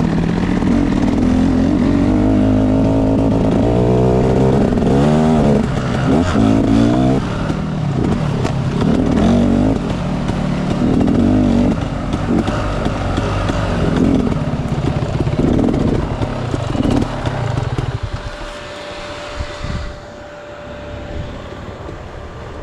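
Dirt bike engine revving hard under load, its pitch rising and falling over and over as the rider works up a climb. About eighteen seconds in it drops to a quieter, steadier running.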